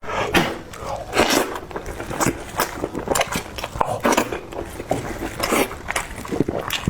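Close-up chewing and crunching of food, with irregular wet and crisp bites several times a second.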